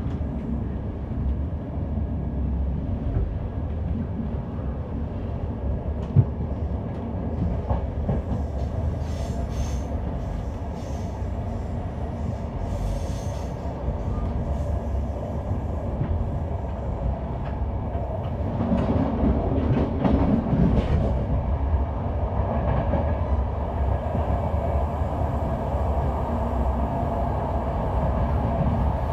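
Passenger train running along the track, a steady low rumble of wheels and carriage. One sharp knock comes about six seconds in, and the rumble grows louder for a few seconds a little past the middle.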